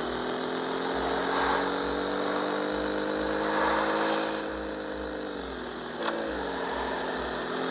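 Yamaha XJ motorcycle engine running under way, with wind rushing over the microphone. It holds a steady note, then drops in pitch about five seconds in as the bike slows, with a click near six seconds, and settles lower.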